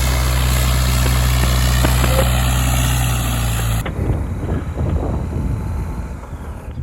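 Motorcycle engine running at a steady, even pitch with a strong low hum. About four seconds in the sound changes suddenly to a quieter, uneven rumble with wind noise.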